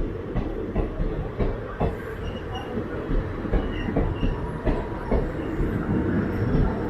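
Coaches of an arriving express passenger train rolling past along the platform: a steady rumble of wheels with irregular sharp clicks as they cross rail joints, and faint brief squeaks in the middle.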